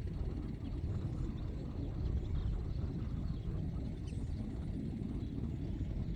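Outdoor field ambience: a steady low rumble, with a few faint high bird chirps now and then.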